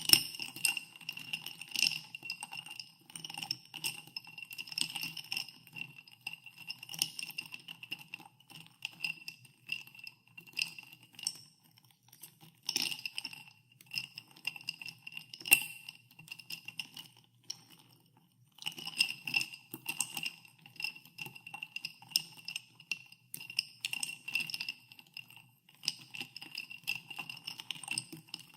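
Ice cubes stirred in a glass of carbonated water, clinking irregularly against the glass, which rings after each knock. The stirring pauses for about a second two-thirds of the way through.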